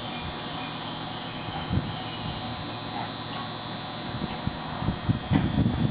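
Electric commuter train pulling slowly into a station platform: a low rumble, with a few wheel knocks over rail joints from about five seconds in. A steady high-pitched tone sounds throughout.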